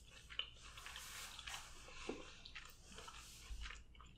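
Close-miked chewing of a soft, cheesy mouthful of seafood in Alfredo sauce: faint, wet, squishy mouth sounds with many small clicks.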